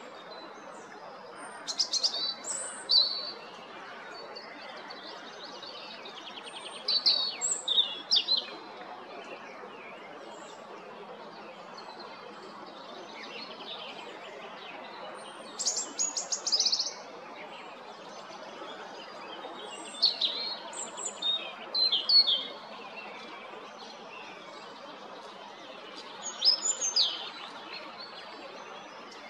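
European robin singing: about five short, high-pitched warbling phrases separated by pauses of several seconds, over steady background noise.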